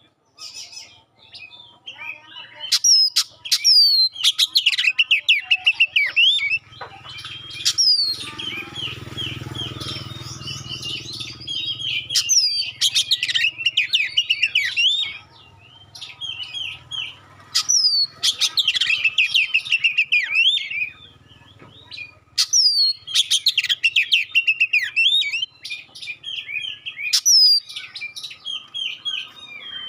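Oriental magpie-robin (kacer) singing in loud bouts: rapid chattering phrases broken by sharp, high whistles that slide downward, with short pauses between bouts.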